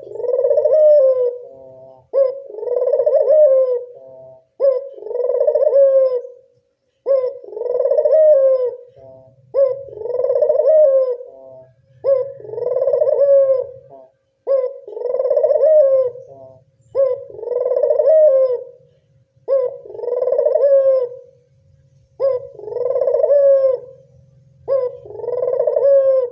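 Local puter dove (Barbary/ringneck dove) cooing over and over, about eleven like phrases, one every two and a half seconds or so. This is a lure call of the kind used to draw other doves in.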